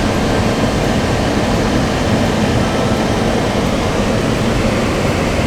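Steady road and wind noise inside the cabin of a moving Toyota, an even rumble and hiss.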